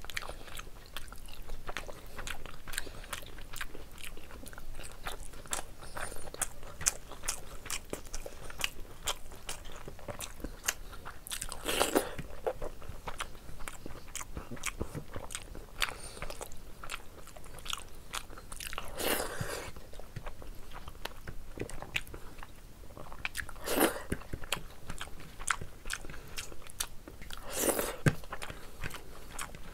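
Close-miked chewing of rice and curry eaten by hand: steady quick clicks of chewing, with four louder, longer mouth sounds spread through.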